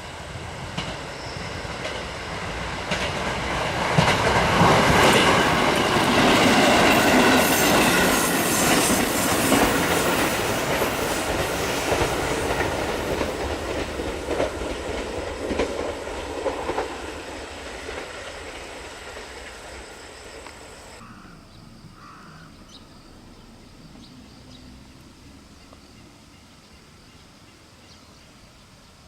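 Shinkansen bullet train passing through a station at speed without stopping: a rush of air and rail noise that builds over about four seconds, stays loud for several seconds, then fades away over the next ten or so.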